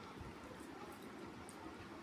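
Soft, wet eating sounds: fried rice and chicken kosha gravy being mixed by hand and chewed, with small squishing and clicking noises.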